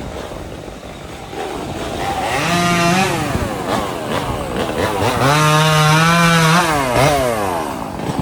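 Two-stroke chainsaw revved up twice, each time climbing to a high steady whine and then dropping back toward idle; the second rev is longer.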